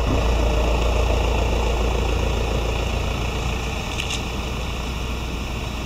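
Car engine idling steadily with a deep, even rumble, and a couple of short clicks about four seconds in.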